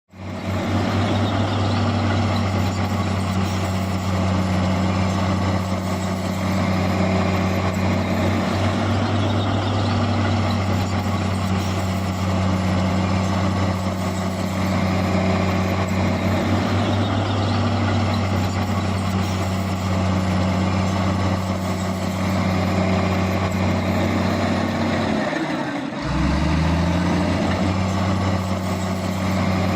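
Heavy diesel engine of earthmoving machinery running steadily. Near the end its pitch drops sharply for a moment and then climbs back.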